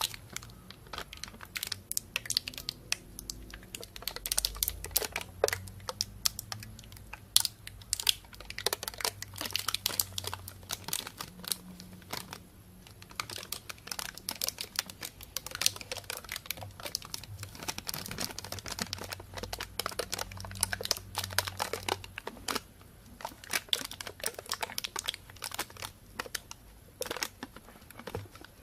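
Plastic bag crinkling and rustling close to a binaural microphone: a dense, irregular run of small sharp crackles with a few brief lulls.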